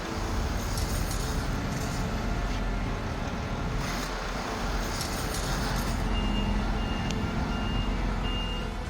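Heavy machinery running with a steady engine rumble. About two-thirds of the way in, a reversing alarm sounds five evenly spaced beeps, the sign of a machine backing up.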